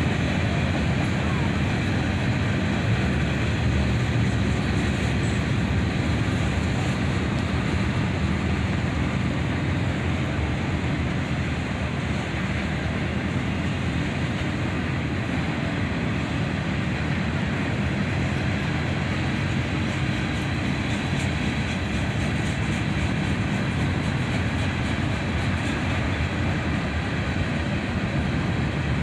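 Freight cars of a long mixed manifest train rolling past: a steady rumble of steel wheels on the rails.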